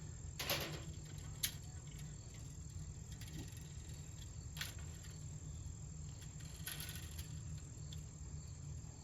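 Crickets trilling steadily on one high pitch, with a few short faint scrapes and clicks from metal rake tines being bent back into shape by hand.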